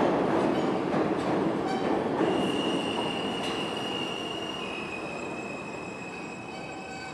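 New York City subway train pulling out of a station, its rumble fading steadily as it moves away. A few clicks from the rails early on, then a high, steady wheel squeal starts about two seconds in, dips slightly in pitch and carries on.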